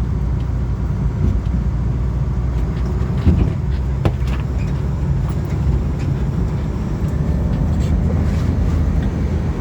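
Steady low engine rumble of an amphibious duck tour vehicle, heard from on board, with two brief knocks about three and four seconds in.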